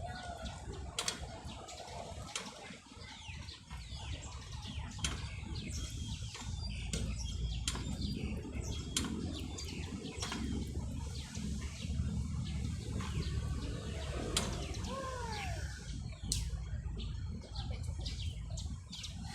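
Small birds chirping in many short, high calls, over a steady low rumble and frequent sharp clicks.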